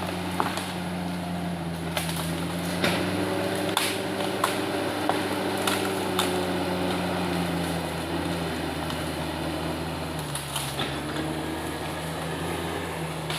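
Komatsu D68ESS bulldozer's diesel engine running steadily, with a dozen or so sharp knocks and cracks scattered over it. The engine note drops slightly about ten seconds in.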